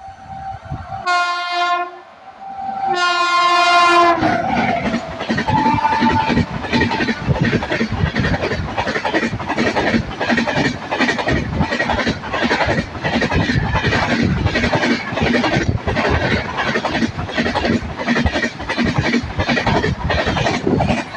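Indian Railways express train passing at speed: the locomotive's horn sounds two blasts, the second dropping in pitch as it goes by. The coaches then rush past with a loud, rapid, rhythmic clatter of wheels over the rail joints.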